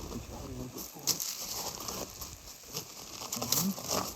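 Clothing and gear rustling close to the microphone, with several sharp crinkling scrapes.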